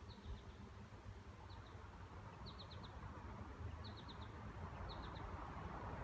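A small songbird chirping, short high notes in quick runs of two to four, repeating about once a second, over a low steady rumble.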